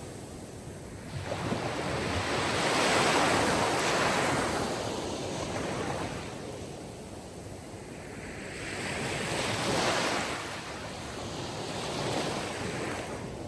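Sea surf: waves breaking and washing in, the hiss swelling and falling in slow surges, two big ones about three and ten seconds in and a smaller one near the end.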